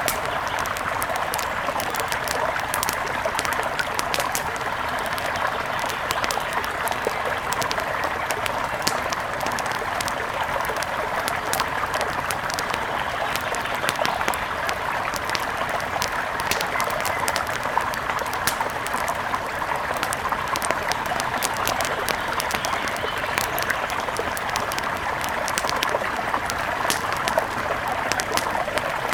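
A mountain river rushing steadily, with frequent light crackles over it.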